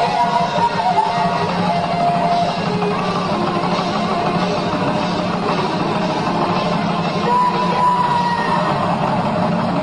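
Heavy metal band playing live: distorted electric guitars with a drum kit, loud and dense.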